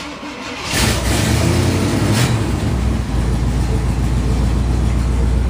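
1966 Pontiac Bonneville's V8 cold-started: the starter cranks briefly, the engine catches within about a second and revs up, then settles into a steady idle about three seconds in. It starts easily.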